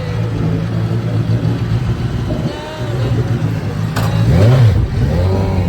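A motor vehicle engine running steadily. About four seconds in there is a sharp click, then the engine's pitch rises and falls, as when a vehicle revs or passes by.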